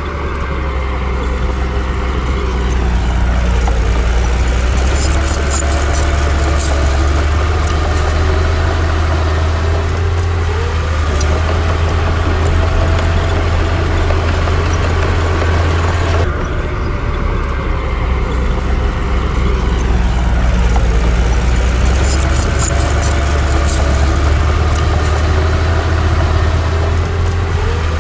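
Heavy diesel engine of earthmoving machinery running steadily, its pitch rising and falling with the load. A few light metallic clinks are heard, and the sound changes abruptly about sixteen seconds in.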